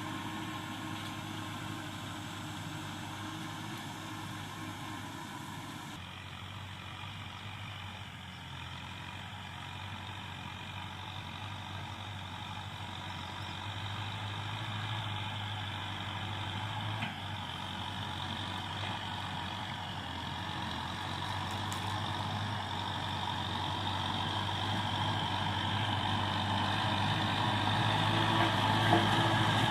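Kubota tractor engine running steadily while plowing, a constant low hum that grows gradually louder over the last ten seconds or so.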